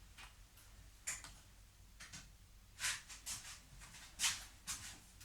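Light, sharp clicks and ticks at an uneven pace, about six of them, some in quick double taps, over a faint low hum.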